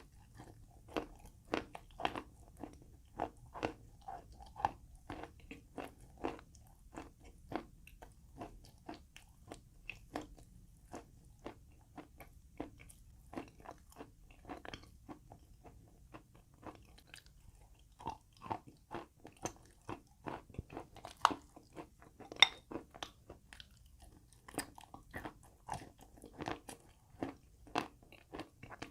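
Chalk being bitten and chewed: a run of sharp crunches, roughly one to two a second, with two louder bites about two-thirds of the way through.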